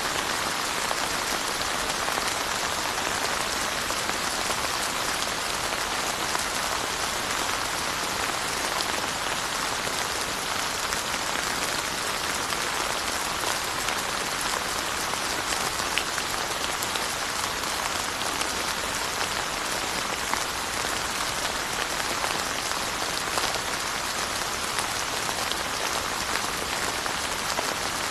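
Steady rain falling on surfaces: an even hiss with small drop ticks scattered through it, no change in strength.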